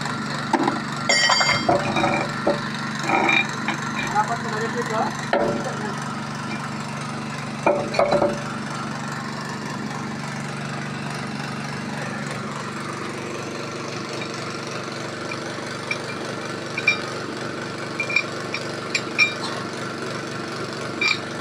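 An engine running steadily at idle, with people talking over it in the first few seconds and again around eight seconds in, and a few short clicks near the end.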